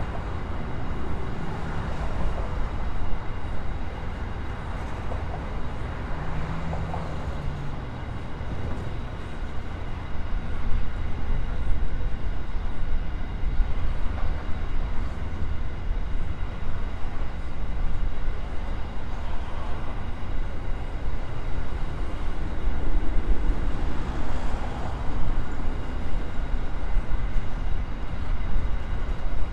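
A long freight train of open hopper wagons rolling past, its wheels on the rail making a steady low rumble.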